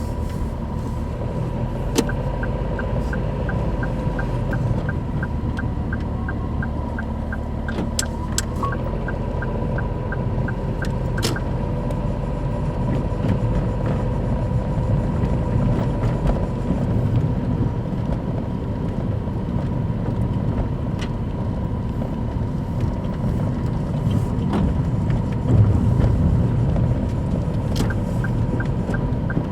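Daihatsu Move Custom RS (L175S) 660 cc turbo three-cylinder engine running with a steady low rumble, its noise let through by worn, torn engine-mount bushes. A regular ticking of about three a second comes in about two seconds in, stops after about ten seconds, and comes back near the end.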